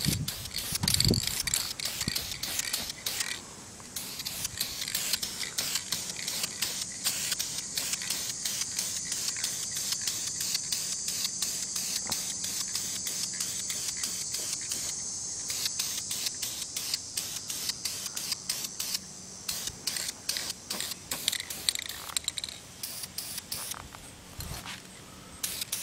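Krylon Camouflage Ultra Flat aerosol spray paint can hissing as paint is sprayed in long passes, with a few short breaks between passes.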